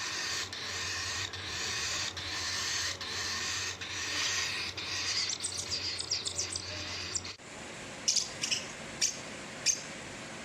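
A parrot's harsh, hissy calls, repeated in a steady rhythm and cut off suddenly about seven seconds in, then four short, sharp chirps.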